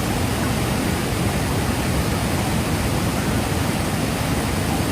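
Fast-running floodwater rushing through a desert wash: a steady, even rush of water noise.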